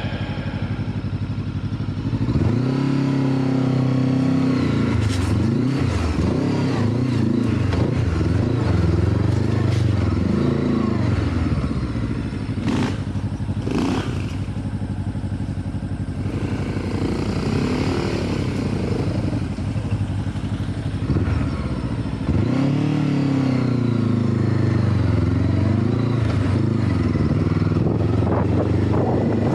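Off-road motorcycle engine riding at low speed, its pitch rising and falling as the throttle is opened and closed, with a few knocks and clatter from the bike over rough ground.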